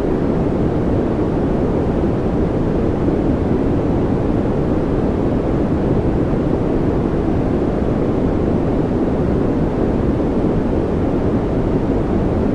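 Steady, unchanging noise played as a background sound for focus and calm, deep rather than hissy, with most of its weight low and little treble.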